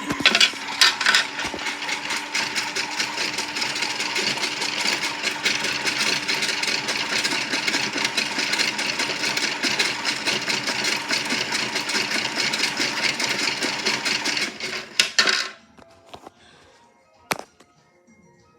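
Small motor of a toy washing machine running with a loud, steady rattle, then stopping suddenly about fifteen seconds in. A single sharp click follows a couple of seconds later.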